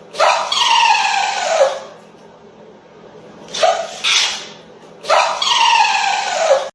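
A dog giving two long, drawn-out howling calls that slide down in pitch, with two short yelps between them. The sound cuts off abruptly at the end.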